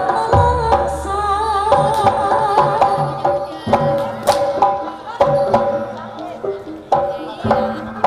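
Javanese gamelan music: kendang hand-drum strokes drive the rhythm under ringing held notes from the pitched instruments, with a wavering melody line about a second in.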